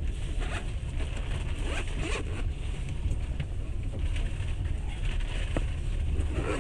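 Steady low rumble of a moving passenger train heard from inside the carriage, with scattered clicks and rattles.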